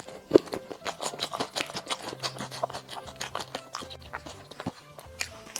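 Close-up chewing of a burger: a quick run of wet mouth clicks and smacks, with one sharp bite about a third of a second in.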